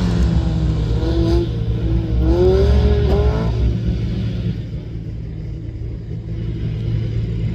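Rally car engine revving hard, its pitch climbing and dropping back several times in the first three and a half seconds, then falling away quieter.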